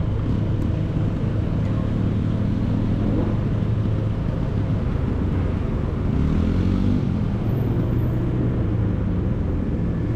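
CFMoto motorcycle engine running steadily while riding, with a low even hum; about six to seven seconds in, a tone briefly bends up and back down.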